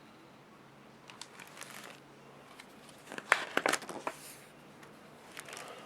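Paper rustling and crinkling with a few sharp crackles as the pages of a book are handled and turned, loudest about three to four seconds in.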